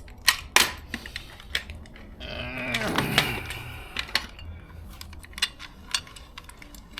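Metal clinks and knocks of a car jack being handled and pulled out from under a car, several sharp hits spread through. A brief wavering pitched sound comes about halfway through.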